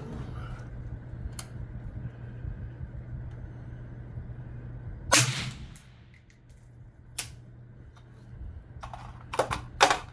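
A single shot from a suppressed 5.56 rifle about five seconds in, sharp and ringing briefly, over a steady low hum. A lone click follows, then a quick run of sharp metallic clicks near the end.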